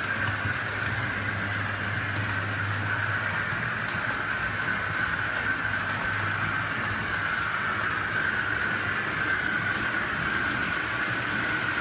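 OO gauge model train running on the track: a steady whine with wheel noise, and a low hum that is strongest in the first few seconds.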